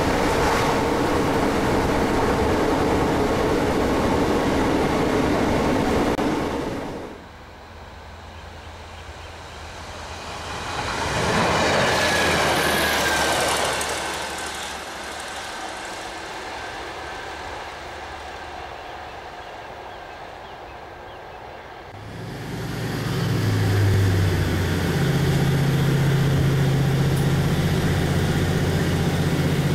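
Noise inside a moving train carriage, then a Class 156 Sprinter diesel multiple unit passing by on the line, its sound rising to a peak and fading away. After that comes the inside of a train carriage again, with the underfloor diesel engine's steady low drone.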